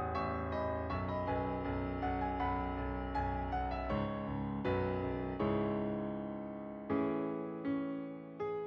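Background music: gentle solo piano playing a slow melody, notes struck and left to ring.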